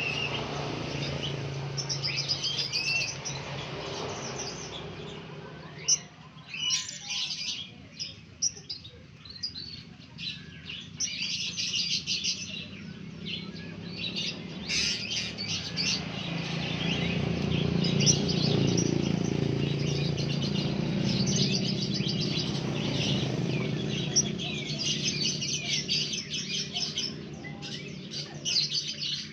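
A flock of blue-crowned hanging parrots (serindit) chirping together: many short, high-pitched calls overlapping throughout, over a low background hum.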